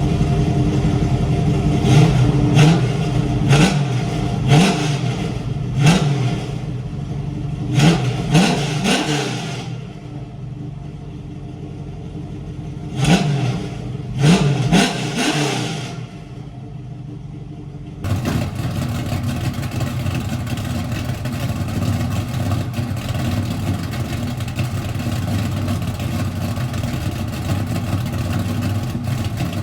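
406 small-block Chevy V8 blipped repeatedly, with about a dozen quick revs that rise and fall back, and a short lull in the middle. From a little past halfway it runs steadily at an even speed to the end.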